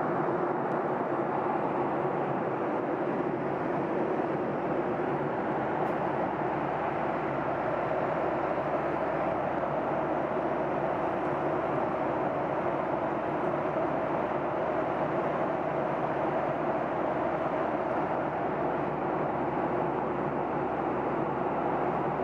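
Steady roar inside the passenger cabin of a Boeing 737-800 airliner in flight: the CFM56 jet engines and the air rushing past the fuselage, an even noise that holds without change.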